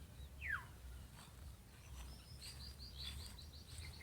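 Birds calling faintly: one call sliding downward about half a second in, then a quick run of short high chirps, about five a second, from about two and a half seconds on, over a low steady rumble.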